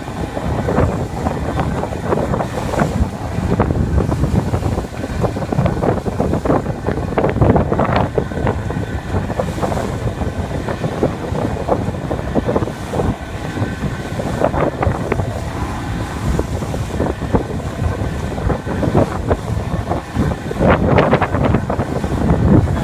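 Boat engine running steadily while under way, with wind buffeting the microphone in irregular gusts.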